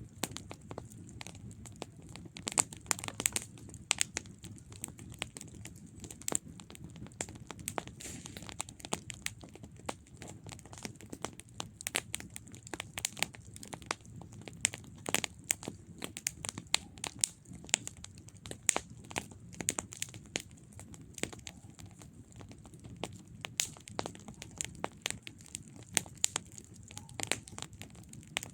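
Campfire burning, with irregular sharp pops and crackles of burning wood over a low, steady rumble of flames.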